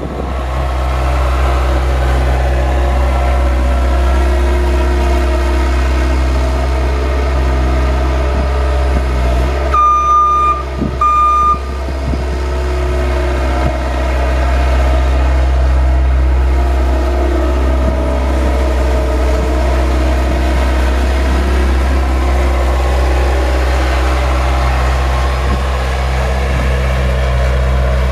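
Engine of a snow-plowing vehicle running steadily under load. About ten seconds in, two short electronic beeps sound.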